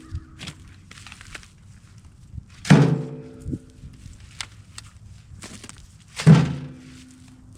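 Cut rounds of green ash firewood being thrown down onto wood, two heavy thunks about three and a half seconds apart, each ringing briefly. Small knocks fall between them.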